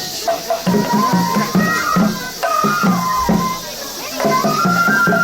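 Japanese festival hayashi music accompanying a shishimai lion dance: a high bamboo-flute melody of held, stepping notes over steady drumming.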